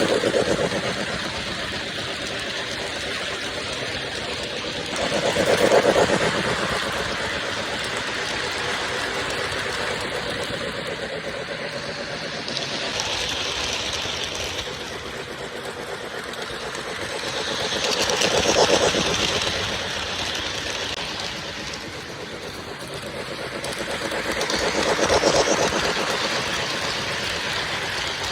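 O-gauge Lionel LionChief Plus Hudson model steam locomotive and its train running laps on the track, a steady rolling rumble that swells each time it passes close by, roughly every six to seven seconds.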